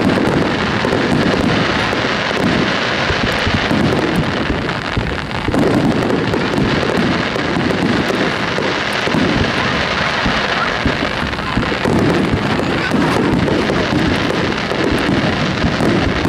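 Star mine fireworks barrage: a dense, unbroken run of bursts and crackles with no pause between shots.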